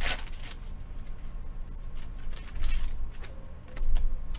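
Trading cards being handled and flipped through by hand: short sliding, rustling strokes with a few light clicks, and a low bump near the end.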